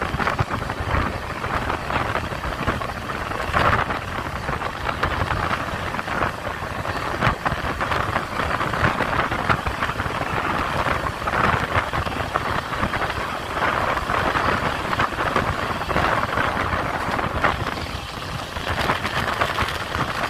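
Passenger train running: a steady rushing noise with a low rumble and many small rattles and clicks from the wheels and carriage.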